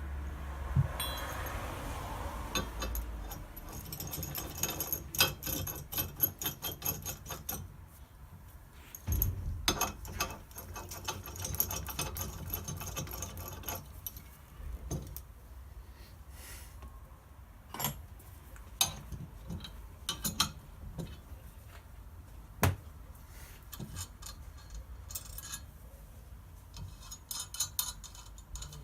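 Small metal parts and hand tools clinking and tapping against each other in irregular runs of sharp clicks, thick for the first half and sparser later, with a few louder single knocks.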